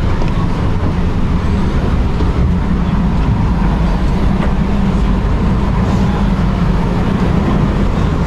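Cruise ship tender boat's engine running steadily, heard from on board as a loud, even low rumble with a faint steady hum above it.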